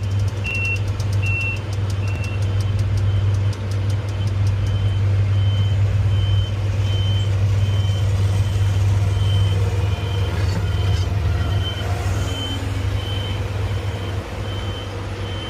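Crane's engine running steadily under a motion alarm beeping about twice a second, the beeps growing fainter as it goes.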